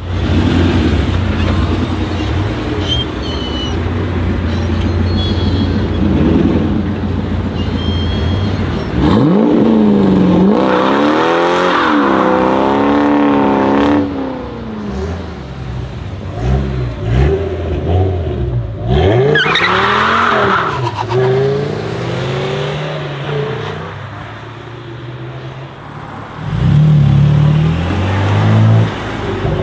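Sports car engines revving hard and accelerating away one after another. The pitch climbs and drops in quick waves through the middle, and a loud low burst of acceleration comes near the end.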